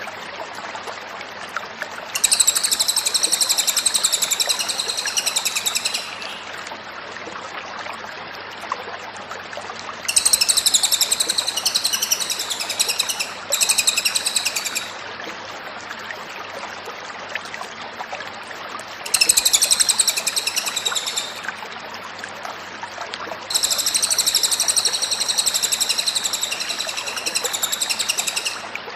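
Cililin songbird singing in loud, rapid, high trills that come in five bouts of two to five seconds each, over a steady background hiss.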